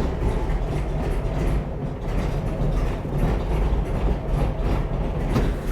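Rebuilt air-cooled VW flat-four engine of a 1950s VW Bus idling with an uneven clatter, its idle screw just backed out a quarter turn; it is not running smoothly.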